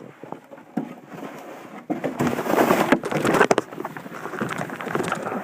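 Sled runners sliding over snow: a scraping, crackling rush that starts about two seconds in and is loudest for a second or so, then eases off.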